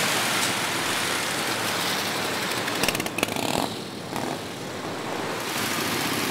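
Vintage motorcycle engine running, heard as a dense mechanical noise, with a few sharp clicks about three seconds in and a brief drop in level just after.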